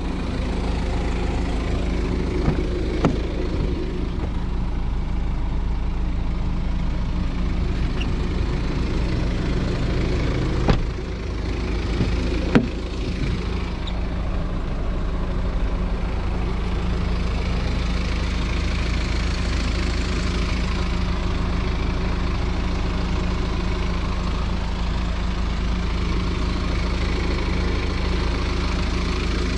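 BMW X4 engine idling steadily, heard from beside the car, with a few sharp clicks about 3, 11 and 12.5 seconds in.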